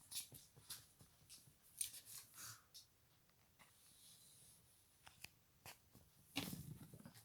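Pet parrots playing: faint scattered clicks and scratches, with a louder rustling burst near the end.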